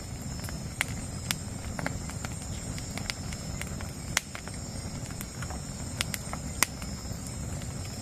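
Campfire of dry wood burning with a low steady rumble and sharp crackling pops, over a steady high chorus of night insects.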